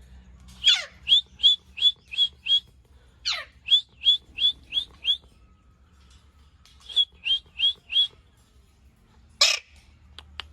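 Ringneck parrot calling in quick runs of short, shrill, sharp notes, about three a second. The first two runs open with a longer falling screech, and a single loud harsh squawk comes near the end.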